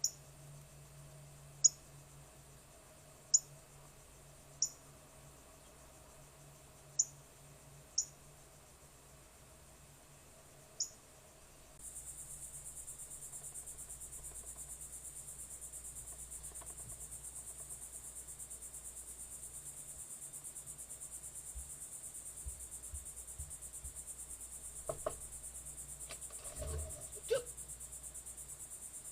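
Sharp single chip notes from a bird, seven of them spaced irregularly over the first dozen seconds. About twelve seconds in, a steady high insect chorus of crickets sets in suddenly and carries on, with a few faint calls and knocks near the end.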